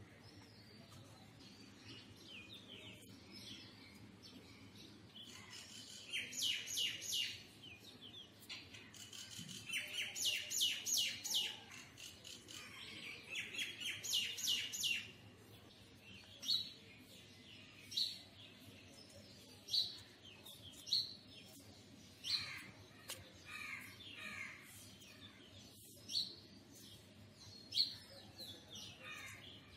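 Birds chirping: three short runs of rapid, high repeated notes, then single chirps about every second or two, some falling in pitch.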